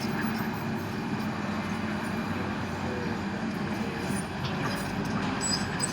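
Excavator running with a steady mechanical drone and a constant low hum, with a few faint ticks in the second half.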